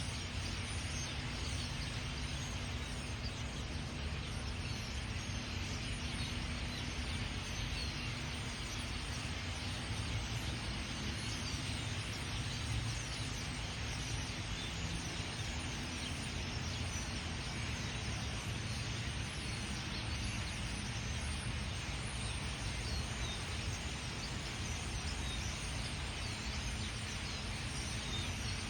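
Many small birds chirping and twittering over a steady background of noise with a low rumble.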